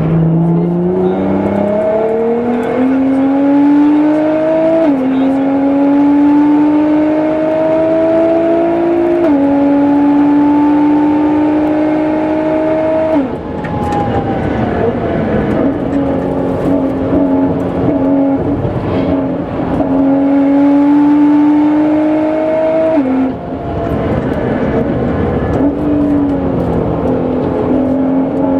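Nissan GT-R R35's twin-turbo V6, tuned to about 700 hp, pulling hard under full throttle. The revs climb and drop back in quick steps through a run of upshifts. The engine note falls away under braking about halfway through and again later, then climbs once more.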